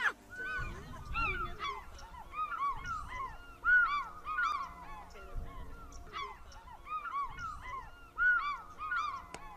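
A group of animals calling together, many short, arching, honk-like calls overlapping several times a second.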